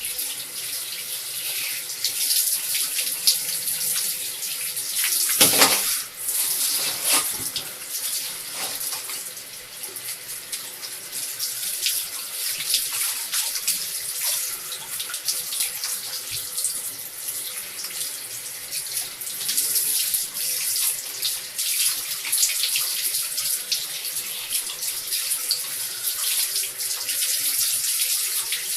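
Tap water running and splashing, with a louder burst of splashing about five seconds in.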